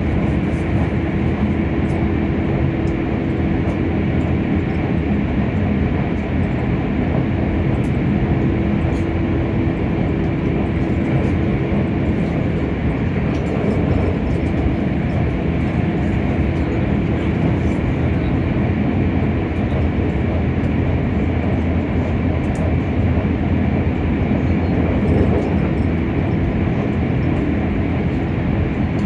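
Keisei Skyliner electric train running along the line: a steady rumble of wheels on rails with a faint, even hum that weakens about halfway through.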